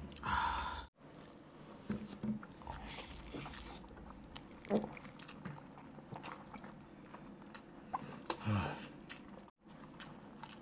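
Close-miked eating: a mouthful of soft noodles being bitten and chewed, with wet mouth clicks and smacks. There is a brief louder slurp-like burst just after the start.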